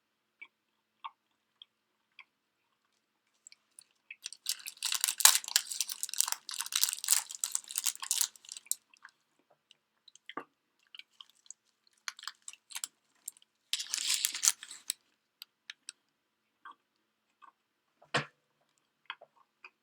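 A person eating close to the microphone: two stretches of dense crunching and crackling, the first about four seconds long and the second shorter, near the middle, with scattered single mouth clicks and smacks between them.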